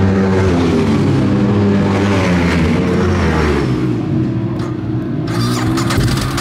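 Ducati 848's L-twin engine at racing revs on track, with its pitch dropping about halfway through as the bike slows and then rising again as it accelerates.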